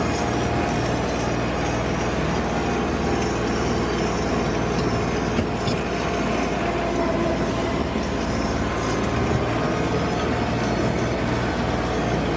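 Tractor engine running steadily, a low, even drone.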